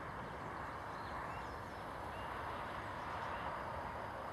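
Outdoor ambience: scattered short, high bird chirps over a steady background hiss.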